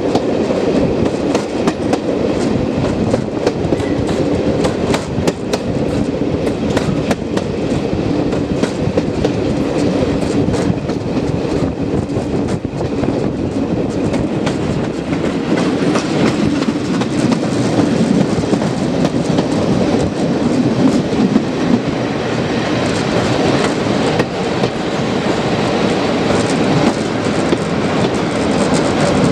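Passenger train running on the line, heard from an open carriage window: a steady rumble from the wheels with frequent clicks and clatter over the rail joints.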